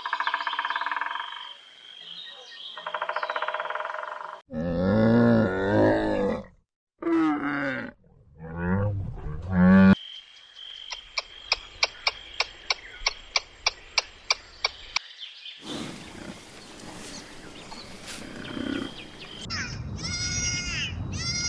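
A series of different animal calls cut one after another: buzzy calls first, then several deep, strong calls, then a rapid run of clicks at about three or four a second, and near the end repeated wavering calls like bleating.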